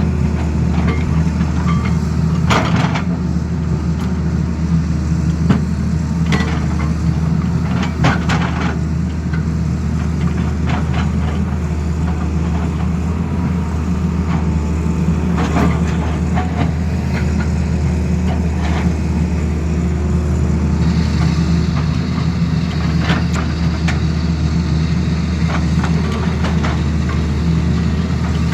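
Tata Hitachi excavator's diesel engine running steadily, with scattered sharp knocks and clanks.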